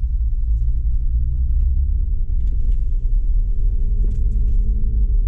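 Jeep engine running with a heavy low rumble; a pitched engine note swells about three seconds in.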